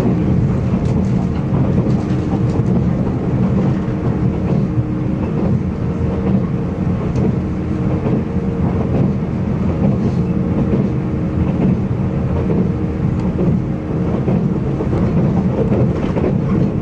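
Train running at speed, heard from inside the passenger carriage: a steady low rumble of wheels on the rails with a constant hum, and faint clicks from the track.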